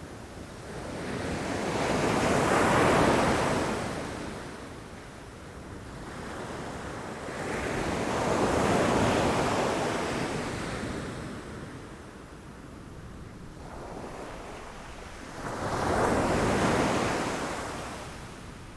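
Ocean waves breaking against rocks, three surges in a row, each swelling and washing away over a few seconds, with a steady low rumble of surf between them.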